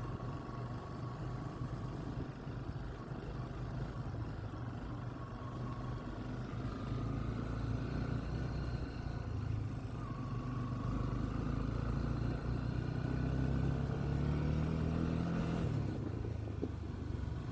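Motorcycle engine running steadily under way, rising a little in pitch and loudness about three-quarters of the way through.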